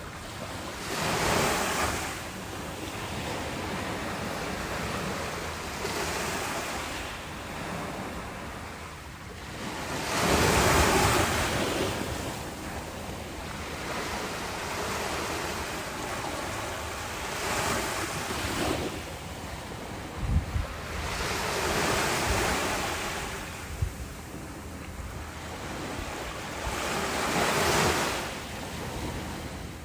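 Ocean surf: waves wash in and ebb in a slow rhythm, a swell of rushing water every five seconds or so, the biggest about a third of the way in. Two brief low thumps come just past the middle.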